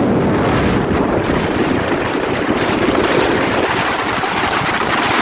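Steady wind rushing over the microphone of a motorcycle riding at highway speed, with road noise mixed in.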